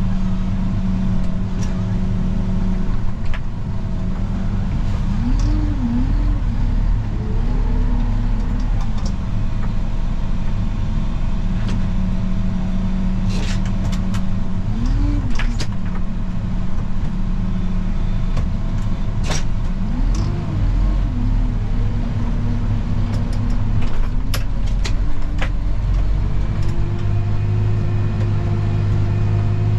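A vehicle engine running steadily, its pitch rising and falling back briefly about three times, with scattered sharp clicks and knocks. A slowly rising tone comes in near the end.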